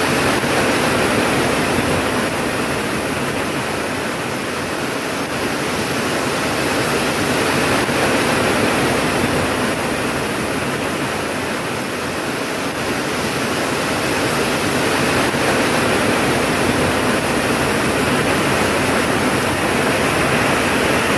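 Steady heavy rain, a dense even hiss that swells and eases gently, with no thunder claps.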